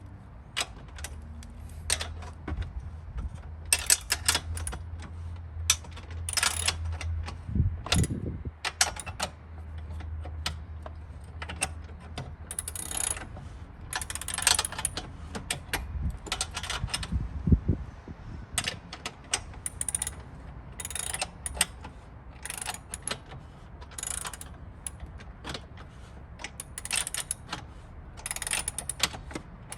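Irregular metallic clicking and clinking of hand tools and parts being worked on a small motorcycle, with a steady low hum that stops about halfway through.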